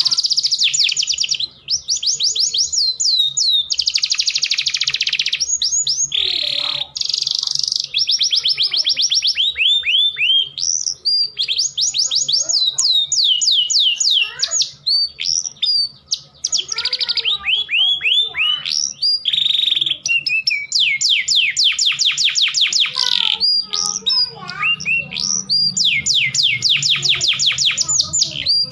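Domestic canary singing a long, continuous song of fast trills, each a rapid run of repeated down-sweeping notes, changing from one trill to the next with only brief breaks.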